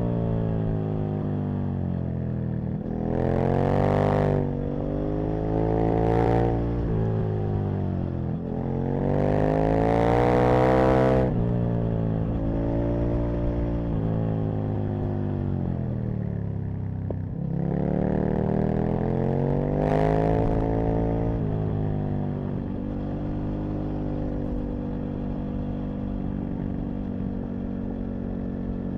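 Aprilia RSV Mille's 998 cc V-twin engine accelerating hard several times, its pitch climbing and breaking off at each gear change, then running at a steady, lower note for the last several seconds.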